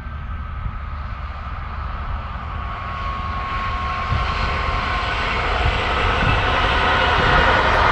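Passenger train approaching along the track, the rush of its wheels on the rails growing steadily louder as it nears, with a faint steady whine in the middle of it.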